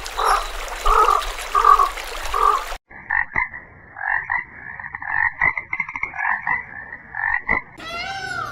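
Frogs croaking: a regular series of croaks, about two a second, over a hiss, then after a sudden cut about three seconds in, a denser run of shorter croaks. Near the end a different animal's drawn-out calls, rising and falling in pitch, begin.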